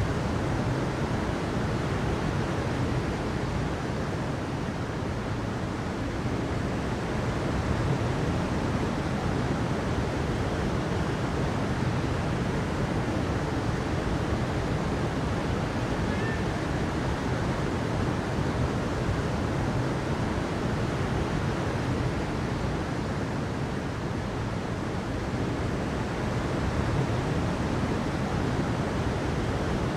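Steady rushing water: an even, unbroken noise with slow, slight swells in level.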